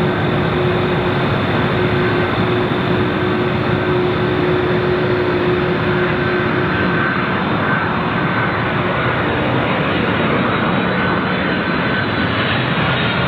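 Jet airliner engines running: a loud, steady rushing noise with a faint hum that fades about halfway through and a thin whine that comes in later.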